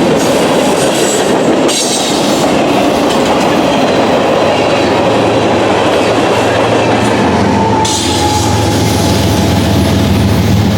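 Norfolk Southern freight train rolling past, its cars and wheels making a loud, steady clatter on the rails. A low steady hum joins in about seven seconds in.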